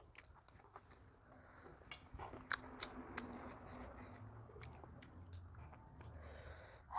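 Close-miked eating: biting and chewing food with wet mouth clicks, and a few sharper crunches about two and a half to three seconds in.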